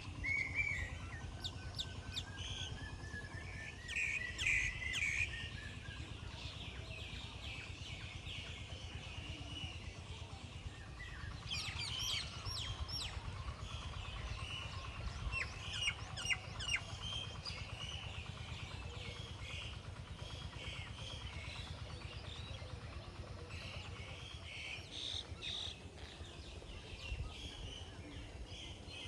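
Several birds chirping and calling, with clusters of quick falling chirps near the start, around the middle and again a few seconds later, over a steady low rumble.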